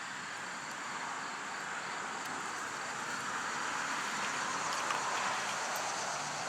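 Steady outdoor background noise: an even hiss, like distant traffic or wind, with faint steady high-pitched tones above it.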